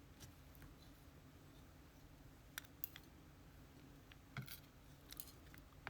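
Faint, scattered clicks and ticks of small metal lock pins and spools being handled, a few separate clicks with quiet between.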